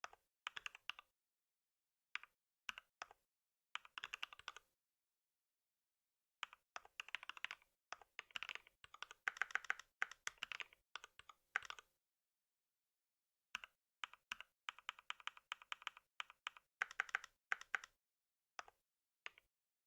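Computer keyboard typing in bursts of quick keystrokes, with short pauses between the runs.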